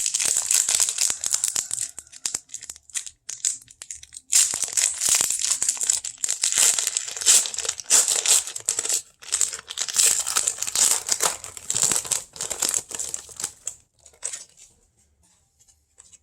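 Trading card pack wrapper crinkling and tearing as it is opened and handled, with a short pause about four seconds in; the crackle dies away about fourteen seconds in.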